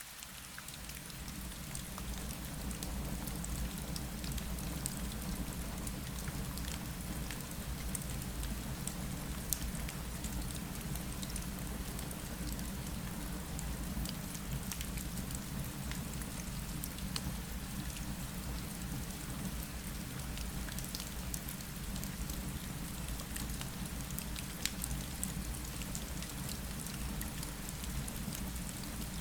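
Steady rain ambience: an even hiss of rain over a low, steady rumble, with scattered small ticks and crackles. It fades in over the first few seconds.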